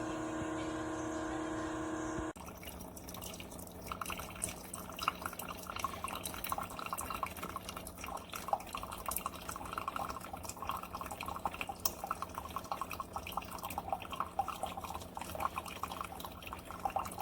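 Amazon Basics single-serve pod coffee maker: a steady machine hum that cuts off about two seconds in, then coffee trickling and dripping into a cup.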